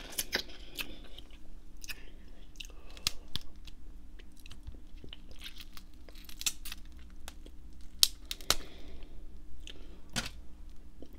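Close-miked wet chewing of crab meat, with sharp clicks and crackles as pieces of crab shell are picked apart by hand.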